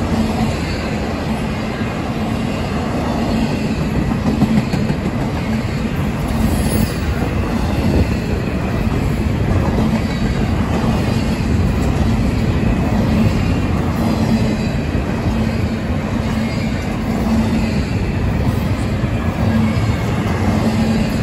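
Double-stack intermodal well cars rolling past: a steady, loud rumble and rattle of steel wheels on rail, with a low hum that comes and goes.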